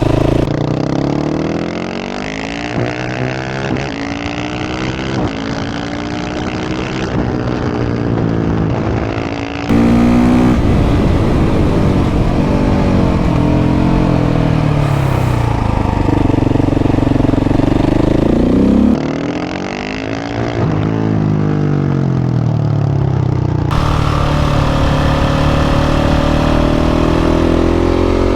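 KTM 690 SMC R's single-cylinder four-stroke engine through a Leo Vince exhaust, heard from the bike while riding: the revs climb and fall again and again, accelerating hard up through the gears and rolling off between pulls.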